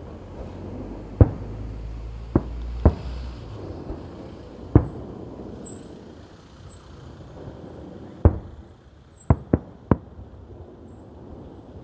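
Fireworks going off: about eight sharp bangs at uneven intervals, three of them close together near the end, over a steady background noise with a low rumble that fades after about three seconds.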